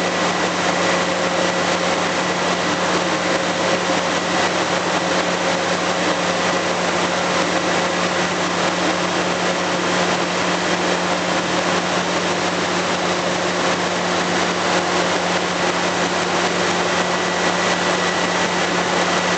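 An engine running steadily at a constant speed on a running test, with a steady hum and a faint high whine over it.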